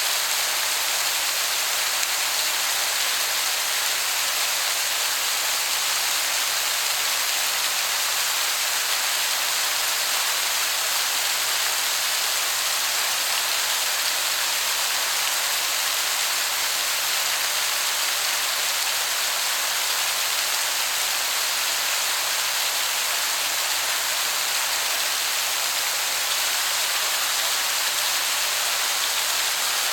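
Waterfall heard from a distance: a steady, even hiss of falling water that sounds like heavy rain.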